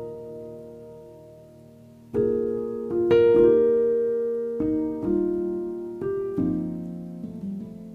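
Background piano music: slow, sustained chords struck every second or so and left to fade.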